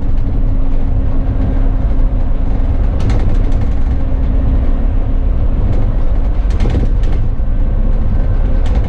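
Double-decker bus heard from the driver's cab on the move: a steady low engine and road rumble with a hum that fades about halfway, and brief rattles about three seconds in and again near seven seconds.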